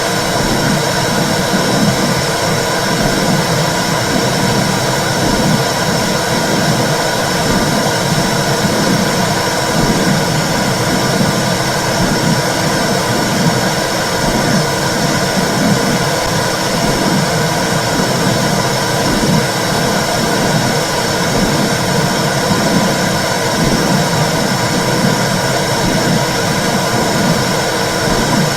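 Womb sound: a loud, steady whooshing rush with a few steady hums in it and a low pulsing that beats through it unevenly.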